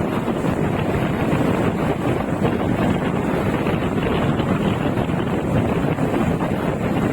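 Steady wind buffeting a smartphone's microphone while riding a bike, a dense noise heaviest in the low end with no let-up.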